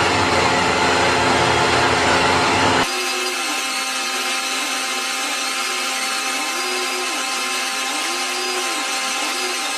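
Metalworking machine tool running with a loud, steady noise, cut off abruptly about three seconds in by a different machine sound. The second one is thinner, with steady tones and a pitch that rises and falls about once a second.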